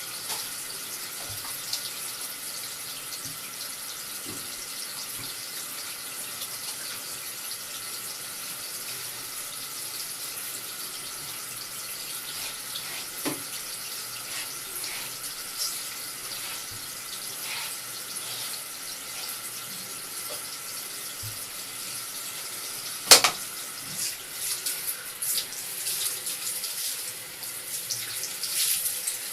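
Tap water running steadily into a basin. A single sharp knock comes about two-thirds of the way through, and after it the water sound turns uneven.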